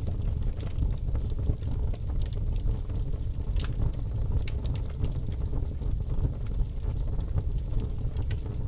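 Campfire burning: a steady low rumble with scattered crackles and pops, one sharper pop about three and a half seconds in.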